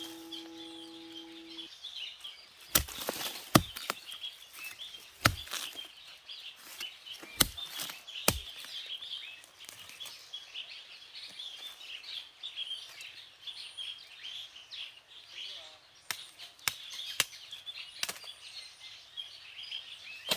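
Outdoor ambience of constant high-pitched chirping from birds or insects, broken by sharp snaps or knocks, about five in the first half and three more near the end. Background music fades out in the first two seconds.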